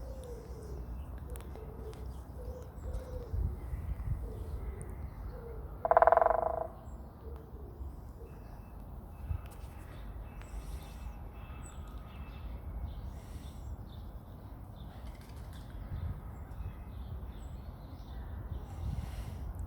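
Woodpecker drumming once, a single short roll of about two-thirds of a second, about six seconds in. A low outdoor rumble and faint bird calls go on underneath.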